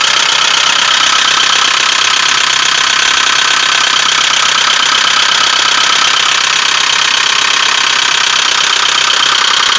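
Ford Focus 2 1.6-litre 100 hp four-cylinder petrol engine running steadily with a rapid knocking. The owner reports the knock comes from the back of the engine and started after revving to 3000 rpm following its reinstallation; the tags point to the valves or hydraulic lifters.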